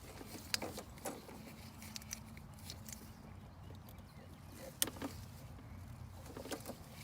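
Gas package unit's compressor and outdoor fan running with a steady low hum, with a few light clicks and taps from handling wiring in the control panel, the sharpest about five seconds in.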